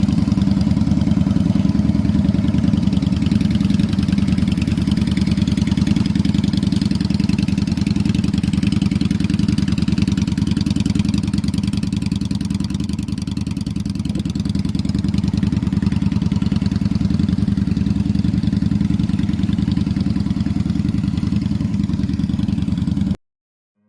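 Honda Shadow 400's V-twin engine idling steadily, then cutting off abruptly near the end.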